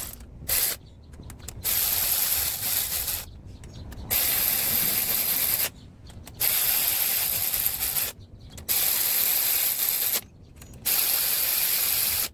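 Ratchet wrench with a 10 mm deep socket clicking rapidly as timing-cover bolts are run down. It comes in about six runs of a second or two each, with short pauses between them.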